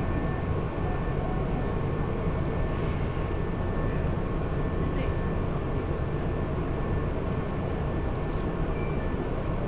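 Hankyu electric commuter train running, heard from inside the car: a steady rumble of wheels and running gear with a faint steady whine above it.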